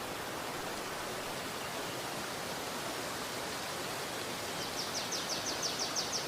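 River water rushing steadily. Near the end a bird gives a rapid trill of about a dozen quick high notes.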